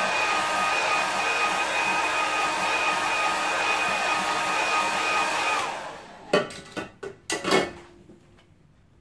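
Hair dryer blowing steadily with a motor whine as it dries a wet watercolour wash on the paper. It is switched off about five and a half seconds in and winds down, followed by a few sharp knocks.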